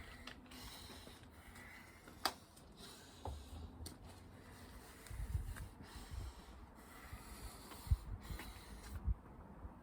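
A man breathing hard from exertion during a burpee and chin-up workout, with a few dull thumps and a couple of sharp clicks.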